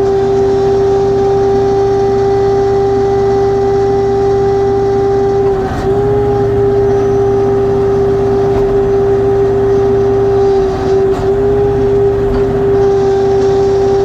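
LS XR3135C compact tractor running with a loud, steady whine from its hydraulics over the low hum of the engine. This is the persistent hydraulic noise that two dealer visits have not cured. The whine wavers and dips briefly about six seconds in and again about eleven seconds in.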